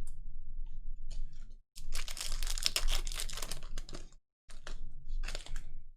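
Foil card-pack wrapper being torn open and crinkled in the hands, a dense run of crackling that is loudest in the middle, then cards sliding out.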